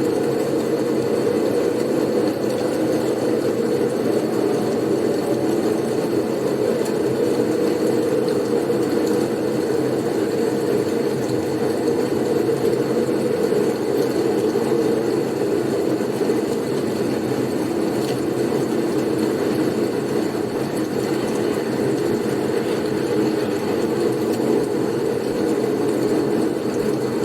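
Steady blizzard wind: an even, unbroken rushing noise, deep and low-pitched, that never rises or falls.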